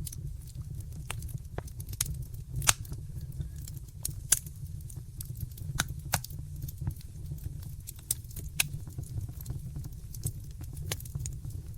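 Wood fire in a fireplace crackling: irregular sharp pops and snaps over a steady low rumble, with the two loudest pops about three and four seconds in.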